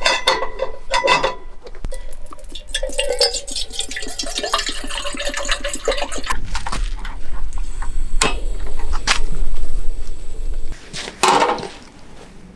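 Camp cooking clatter: metal cookware and utensils knocking and clinking, with a quick run of small ticks in the middle and a few sharp clanks near the end.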